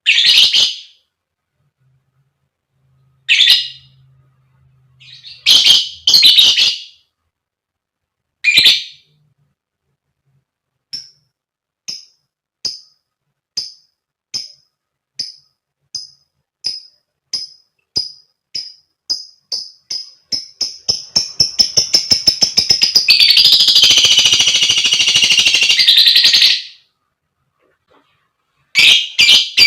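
A lovebird calling: a few short sharp squawks, then single chirps that come faster and faster from about eleven seconds in. The chirps run together into a long rapid chattering trill, the long 'ngekek' chatter, which stops abruptly; another burst begins right at the end.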